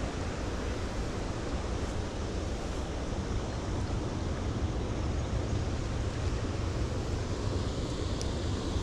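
Steady wind rumble on the microphone outdoors: an even, unbroken noise, heaviest in the low end, with no distinct events.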